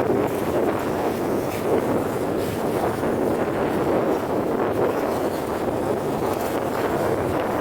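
Steady wind rushing over the microphone, with a motorboat running under it.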